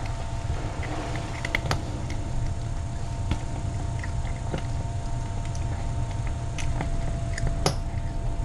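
A cat eating, with scattered small clicks and crunches of chewing over a steady low hum.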